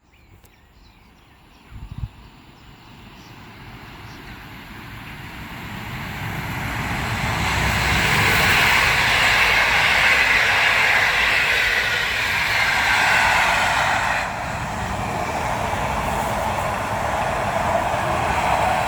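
A passenger train approaching and passing, growing steadily louder over several seconds and then holding loud with a rushing, grinding wheel-on-rail sound. A short knock comes about two seconds in.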